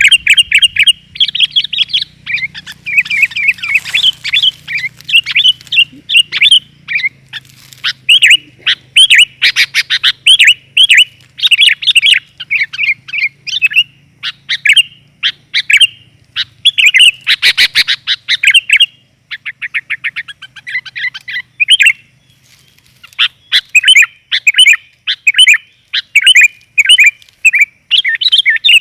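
Sooty-headed bulbul (kutilang) calling busily: a steady stream of short, bright chirped notes, broken now and then by fast chattering runs. The uploader presents it as a female's call, used as a lure for males.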